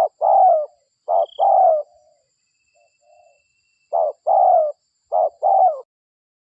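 Spotted dove (derkuku) cooing, a lure-call recording: four coos, each a short note followed by a longer falling note, with a short pause and a few soft notes midway. It stops shortly before the end.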